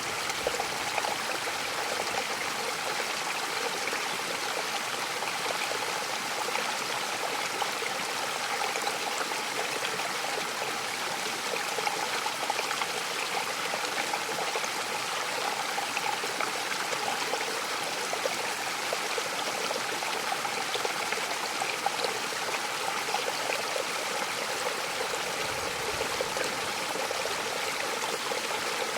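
Mountain waterfall rushing steadily, falling water splashing in an even, unbroken wash.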